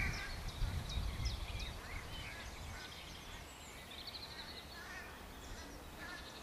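Outdoor ambience of small birds singing: repeated short high chirps, with a brief trill about four seconds in, over a low rumble that fades away in the first two seconds.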